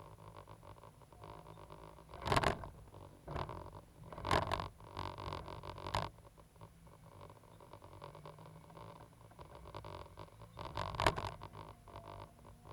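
Cat 320GC excavator's engine running steadily, with several short bursts of scraping noise over it, the loudest about two seconds in and near the end.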